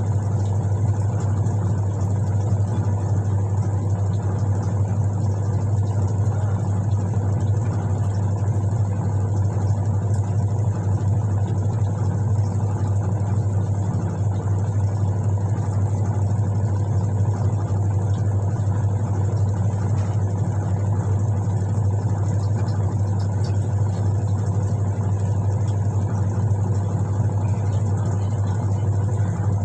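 Washing machine motor running with a steady low hum that does not vary.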